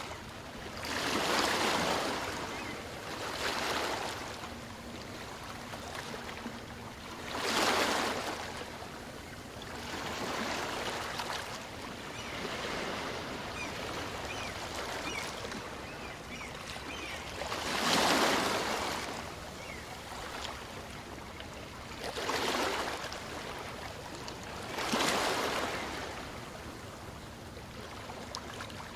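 Small waves on a calm sea breaking and washing up a sandy beach, a rush of surf swelling and fading every few seconds over a steady wash of water.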